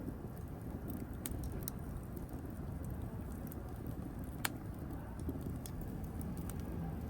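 Wood fire burning in a fireplace: a steady low rumble of flames with scattered small crackles and one sharp pop about four and a half seconds in.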